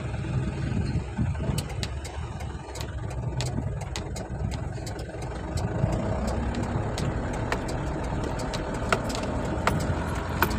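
A motor vehicle's engine running with a steady low rumble, with a few scattered sharp clicks.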